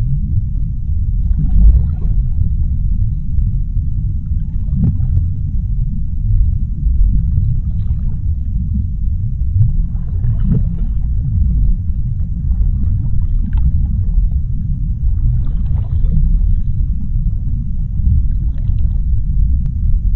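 Underwater sea ambience: a steady deep rumble, with fainter swishing swells every two to three seconds.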